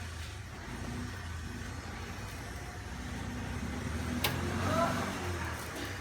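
A steady low motor hum, with a sharp click about four seconds in and a brief voice just after it.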